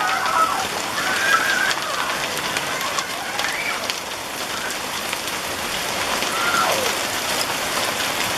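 Hail and rain falling steadily, an even hiss dotted with many small sharp ticks of hailstones striking.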